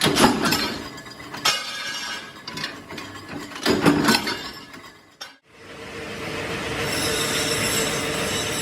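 Several sharp clanks of metal on metal, each ringing briefly, then after a sudden break a steady machine noise with a constant hum.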